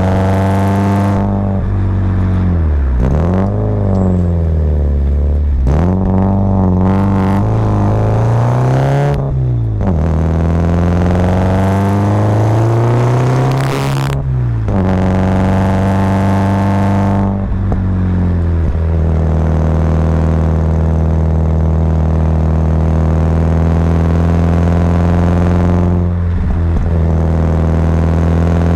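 Subaru Impreza WRX's turbocharged flat-four engine pulling the car uphill. The revs fall and climb again several times in the first half, then hold almost steady for the rest.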